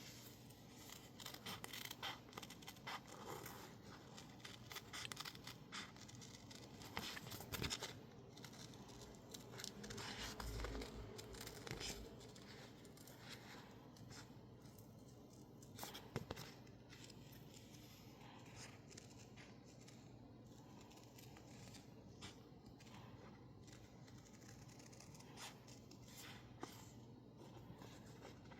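Scissors cutting through label sticker paper: quiet, irregular snips and paper rustles. They are busy through the first half with a louder rustling patch a third of the way in, then thin out to occasional snips.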